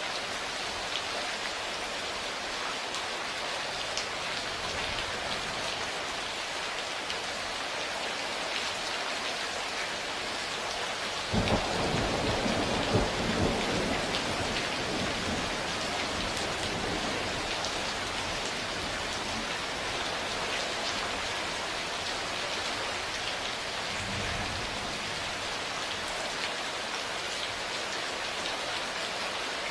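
Steady heavy rain falling, with a clap of thunder that breaks in suddenly about a third of the way through and rumbles away over several seconds, and a fainter roll of thunder near the end.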